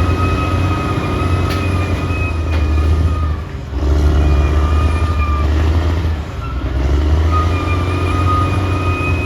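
Caterpillar D6R XL bulldozer's diesel engine running under load, a heavy low drone with a steady high whine above it; the sound drops away briefly twice, about three and a half and six seconds in.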